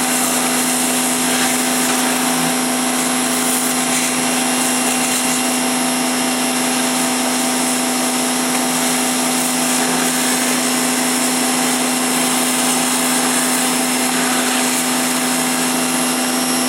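A 1650 psi pressure washer running steadily: its motor hums under the loud hiss of the high-pressure spray, which is blasting ice off the inside of a refrigerator.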